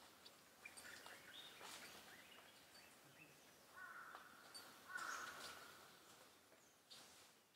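Faint jungle ambience with birds calling: two short harsh calls about four and five seconds in, with scattered brief chirps around them.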